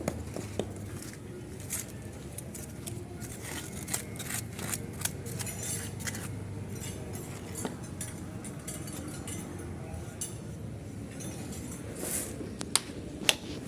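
Irregular clicks and scrapes of hand tools at work, with a knife cutting, over a steady low hum.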